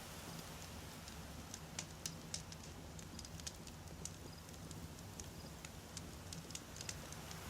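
Wood campfire crackling: irregular sharp pops and snaps from the burning logs, several a second at times, over a faint steady low rumble.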